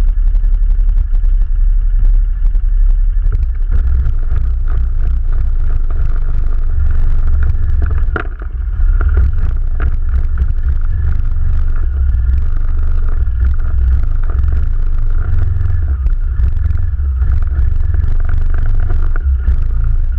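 ATV engine running as it rides along, a heavy low rumble with rattling and clattering throughout, easing briefly about eight seconds in.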